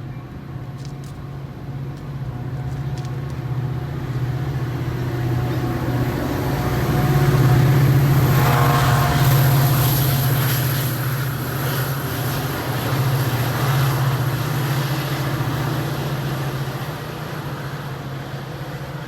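A train passing, with a steady low hum and rail noise. It grows louder to a peak about eight seconds in, then slowly fades as it moves away.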